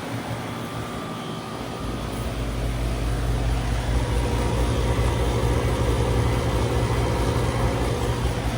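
Goodman GSH13 heat pump outdoor unit running through a defrost cycle, a low steady hum with noise over it. The low hum drops away briefly near the start and builds back up from about two seconds in.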